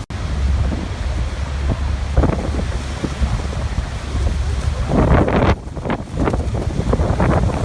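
Rushing water of a waterfall, a steady noisy roar with heavy wind buffeting the microphone and a deep rumble underneath. It swells in gusts about five seconds in and again near the end, and cuts out for an instant at the very start.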